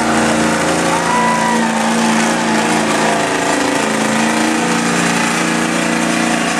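Diesel pickup truck engine running hard at high, nearly steady revs, as in a truck pull down the track.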